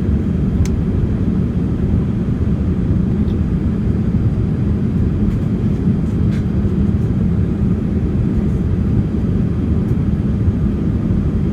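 Steady low roar of a Boeing 787 airliner in flight, heard from inside the cabin: engine and airflow noise at an even level, with a couple of faint clicks.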